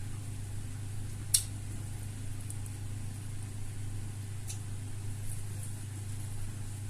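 Quiet eating at a table over a steady low hum: one sharp click about a second and a half in and a fainter click a few seconds later.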